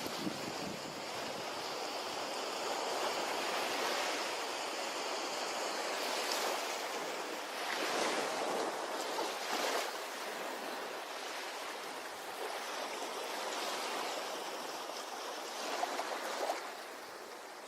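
Ocean waves washing onto a beach: a steady surf hiss that swells as waves break, about every two to four seconds.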